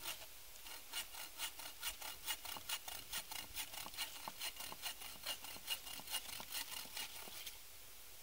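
Hand saw cutting through wood in regular strokes, about three a second, with a faint ringing from the blade; the sawing stops shortly before the end.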